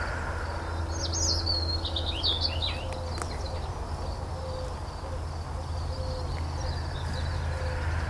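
A songbird calling in a quick run of high chirps and short warbles about a second in, lasting a couple of seconds, over a steady low rumble of outdoor background noise and a faint high insect trill.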